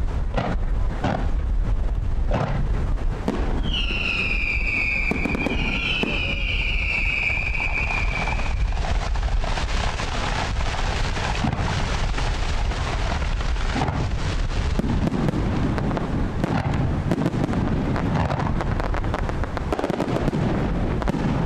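Fireworks display: repeated bangs and crackle from aerial shells and low fountains, over a steady low rumble of wind on the microphone. A high whistle sounds for about four seconds early in the show, wavering and rising once partway through.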